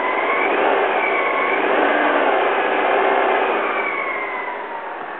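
2001 Alfa Romeo 147 Twin Spark four-cylinder petrol engine, heard up close in the open engine bay, given a light rev: the engine speed rises in the first second, holds, then falls back toward idle near the end.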